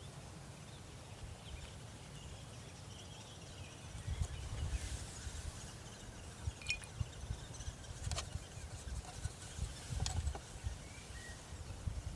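Quiet outdoor ambience: faint bird chirps over a low, gusting rumble, with a few light clicks.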